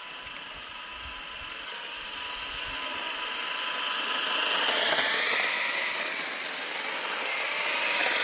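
Whine of a JJRC Q123 1/16-scale RC truck's brushed 370 electric motor and gears running flat out on a speed run. It grows louder and rises in pitch as the truck approaches, passes about five seconds in, dips, then grows loud again near the end.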